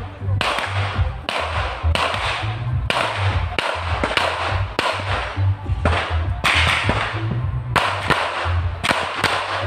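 Pistol shots fired in a rapid, irregular string during an IPSC practical shooting stage, roughly one to two shots a second, over background music with a steady bass beat.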